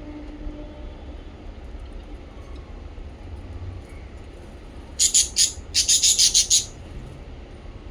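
Small pet parrots chirping: after about five quiet seconds, a couple of sharp high chirps, then a quick run of about eight chirps. A low steady hum sits underneath.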